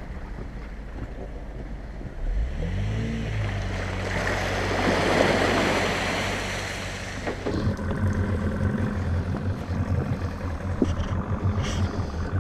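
An engine starts about two seconds in, its pitch rising as it catches, then runs steadily. A rushing noise swells and fades midway, and from about three-quarters of the way through the engine runs with a fast, even throb.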